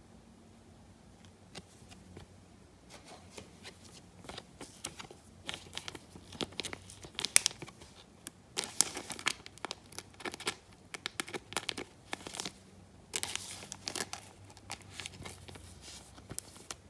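Foil wrapper of a Topps Chrome trading-card pack being torn open and crinkled. It makes an irregular run of crackling tears, with the busiest stretches around the middle and again near the end.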